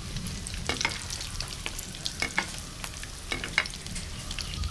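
Vermicelli-coated chicken nests deep-frying in hot oil: a steady sizzle broken by several sharp clicks and crackles, the loudest a little past the middle.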